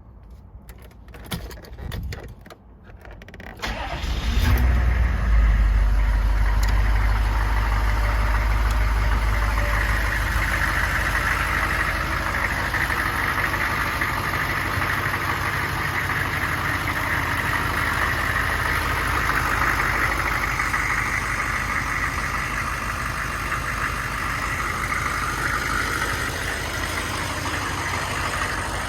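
1999 GMC 3500's 6.5-litre turbo-diesel V8 starting about four seconds in after a few soft knocks, then idling steadily.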